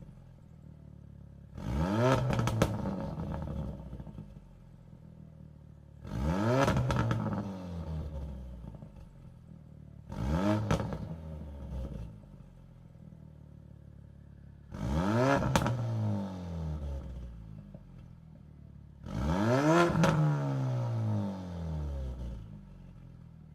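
Turbocharged Ford Focus RS engine with a Precision turbo, revved five times from idle through a 3.5-inch turbo-back exhaust with a Vibrant muffler. Each rev climbs quickly and then falls back slowly to a low idle.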